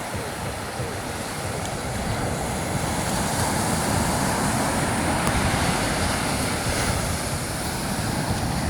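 Ocean surf breaking and washing up the beach, swelling a little partway through, with wind buffeting the microphone.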